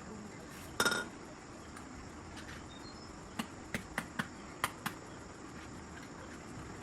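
A short harsh clatter about a second in, then six sharp clicks or taps over about a second and a half, over a steady low background.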